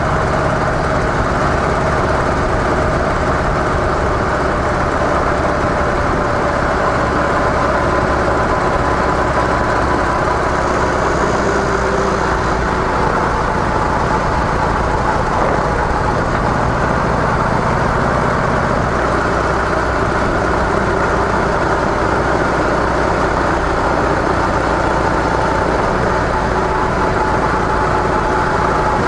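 Harley-Davidson CVO Softail Deluxe's air-cooled Twin Cam 110 V-twin running through stock mufflers while riding at a steady cruise, its note drifting only slightly in pitch as the speed changes a little.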